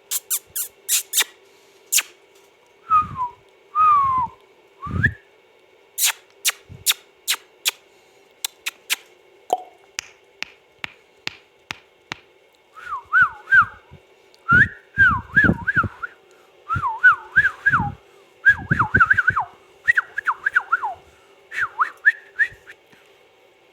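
Indian ringneck parakeet whistling: sharp clicks and a few falling whistles first, then from about halfway on clusters of quick whistled notes that rise and fall.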